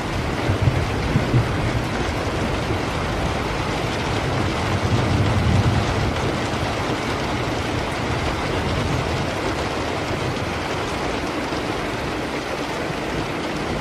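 Steady rain falling, with low rumbles of distant thunder swelling near the start and again about a third of the way in.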